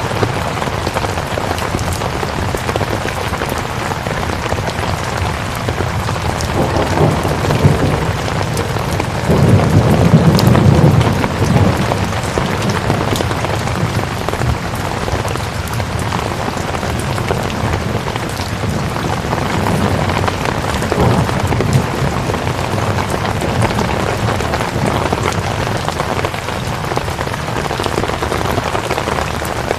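Steady rain falling, with a low rumble of thunder swelling and fading about ten seconds in.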